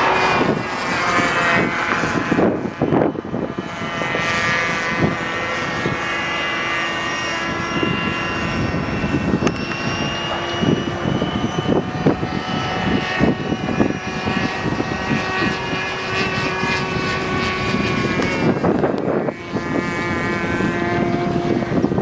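OS .46 two-stroke glow engine of an RC model Fokker Eindecker running with its propeller, the engine note steady but its pitch drifting slightly up and down.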